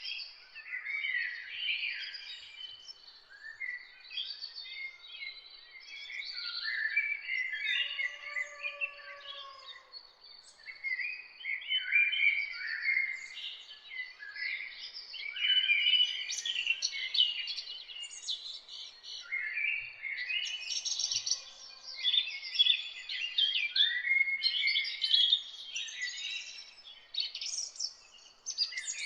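Several songbirds singing and chirping at once, a dense, continuous chorus of short high calls and trills. About eight seconds in, a lower call slides down in pitch beneath them.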